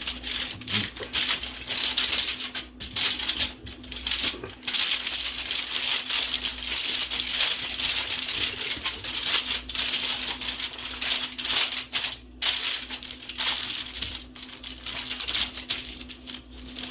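Aluminium foil crinkling and rustling as it is folded and sealed around a fish for roasting, an irregular crackle with short pauses.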